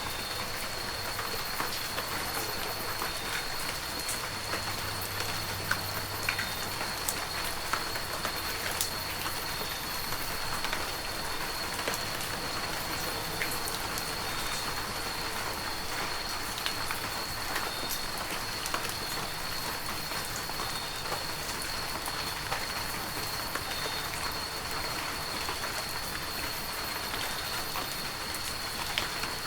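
Heavy rain falling steadily, an even hiss dotted with the sharp taps of individual drops.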